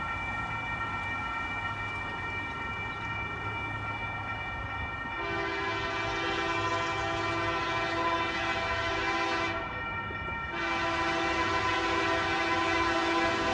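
Locomotive's Nathan K3L five-chime air horn sounding long blasts. It is faint at first, becomes much louder about five seconds in, breaks off briefly near ten seconds, then sounds again and grows louder.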